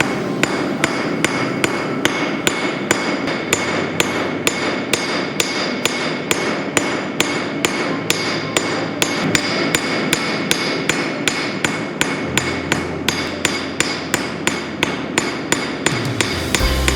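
Blacksmith's hand hammer striking hot steel on an anvil in a steady rhythm of about three blows a second, spreading out the blade of a forged leaf.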